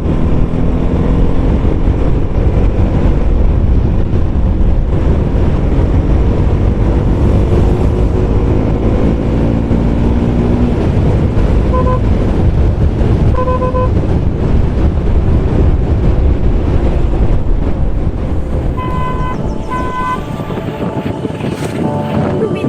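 Motorcycle riding on a road: a steady engine rumble with wind on the microphone. A vehicle horn toots in two pairs of short beeps, one pair a little past halfway and another near the end.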